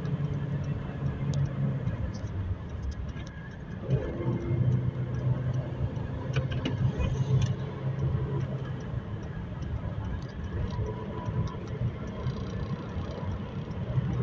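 Car engine running at highway speed with road noise, heard from inside the cabin. The engine note fades about two seconds in and picks up again at a lower pitch about four seconds in.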